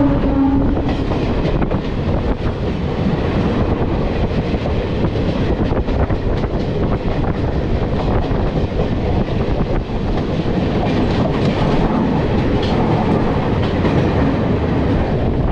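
Train wheels rushing along the rails with a clickety-clack over the rail joints, heard from aboard a moving express while another train passes on the next track. A train horn tails off just after the start.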